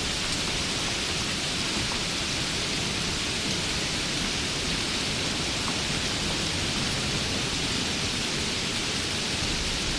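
Steady rain, an even hiss with a low rumble underneath and no change in level.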